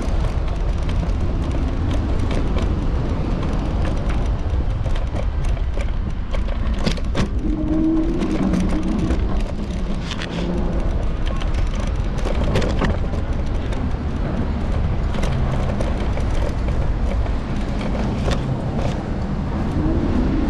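Steady low rumble of wind and road noise from a moving electric scooter, picked up by a camera mounted on its handlebars, with scattered clicks and rattles as it rolls over the street.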